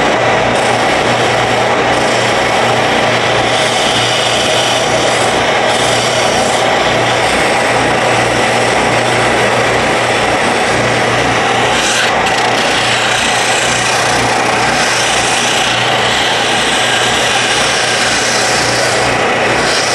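Woodworking power tool running steadily against a cedar fence-picket board as the traced handle piece is shaped, a dense, even noise with a low hum under it.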